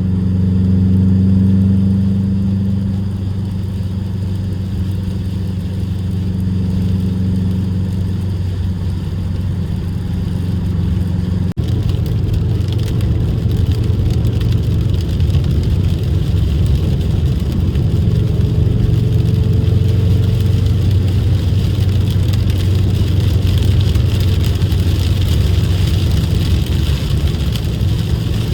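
Bugeye Subaru WRX's turbocharged flat-four engine running while driving, heard from inside the cabin. A steady engine note for the first several seconds, then, after a brief dip near the middle, it is mixed with more tyre and road hiss.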